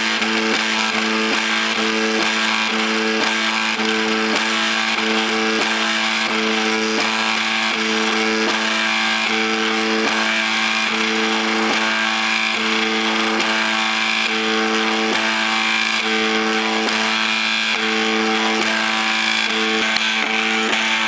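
MakerBot 3D printer's stepper motors whining in steady tones as it prints, a constant low hum with higher tones switching on and off in short runs as the print head moves back and forth.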